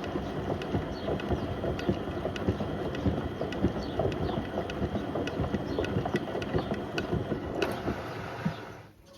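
Beko WM74135 washing machine drum tumbling a toaster and a kettle in water, with steady sloshing and frequent irregular knocks and clatters as the appliances tumble. The tumbling stops near the end.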